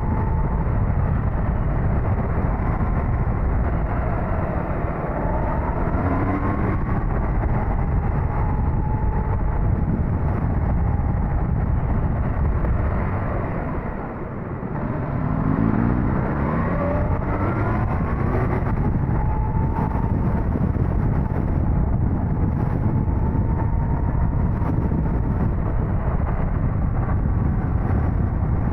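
Suzuki GSX-S1000GT's inline-four engine running under way, heavy wind and road noise over it and the engine pitch rising and falling with the throttle. About halfway the throttle closes briefly and the sound drops, then the engine pitch climbs again as it accelerates.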